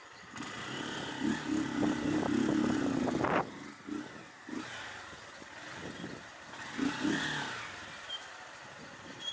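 Honda CB 300 motorcycle's single-cylinder engine running under way: louder and steady for about two seconds, then dropping away sharply a little over three seconds in, and running quieter after that with a brief swell near the seven-second mark.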